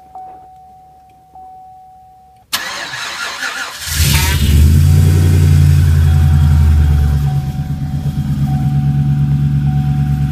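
2006 GMC Sierra 1500 pickup engine cold-started at −37 °C after sitting unplugged, with no block heater. The starter cranks for about a second and a half, the engine catches, runs loud and fast for about three seconds, then settles to a steady fast idle.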